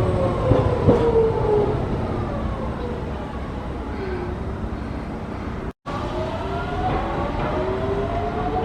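Hiroshima Electric Railway tram's traction motors whining, the pitch falling as it slows, with a few clicks near the start. After a brief break, a tram's motor whine rises steadily in pitch as it pulls away.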